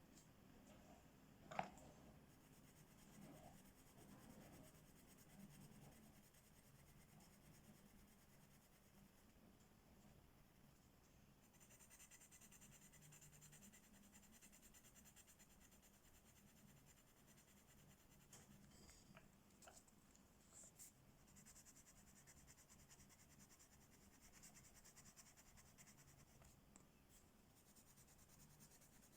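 Faint scratching of a colouring tool shading on paper, coming and going in strokes, with one sharp click about one and a half seconds in.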